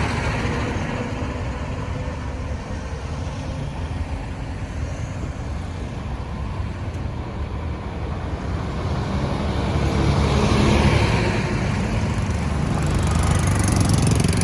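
Road traffic: engine hum and tyre noise of vehicles on the road, swelling as a vehicle passes close about two-thirds of the way in and again near the end.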